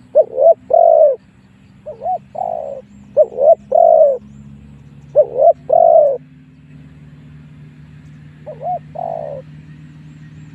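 Spotted dove cooing: five phrases of its territorial call, each a couple of short notes and then a longer coo, spaced one to three seconds apart. This is the lure call used to draw wild spotted doves in to fight. A faint steady low hum runs beneath.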